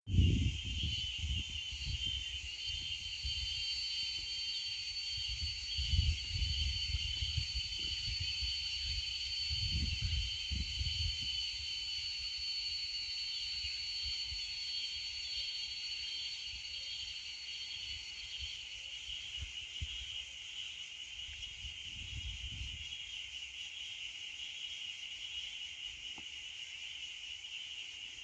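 A steady, high-pitched chorus of calling frogs or insects, with a thinner, higher trill that fades out about two-thirds of the way through. Low rumbles rise and fall several times, loudest near the start.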